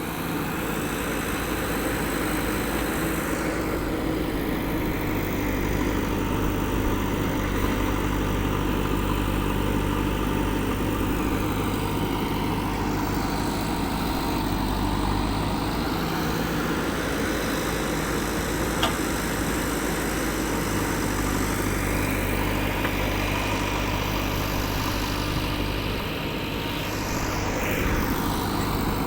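JCB backhoe loader's diesel engine running steadily while the machine works, its sound swelling and easing slowly, with a single short click about two-thirds of the way through.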